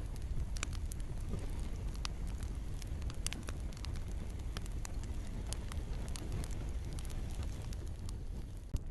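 Campfire crackling, with irregular sharp pops and snaps over a steady low rumble of burning, and rain falling in the background.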